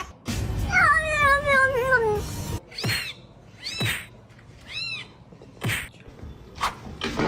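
Cat giving one long, wavering yowl that falls in pitch, then three short meows about a second apart.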